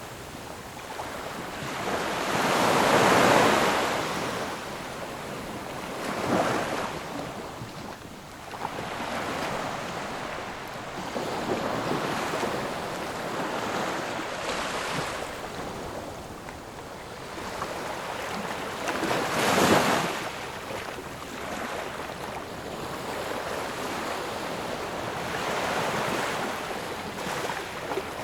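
Ocean waves breaking on a shore, a steady wash of surf in which louder waves swell and break now and then, the biggest about three seconds in and again about twenty seconds in.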